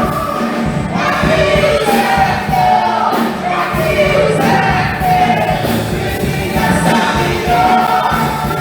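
A choir singing with musical accompaniment, the melody moving in held notes.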